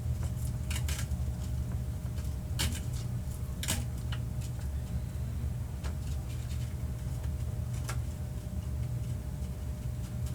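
Paper and craft pieces handled at a desk: a few short sharp clicks and rustles, the loudest about two and a half and three and a half seconds in, over a steady low hum.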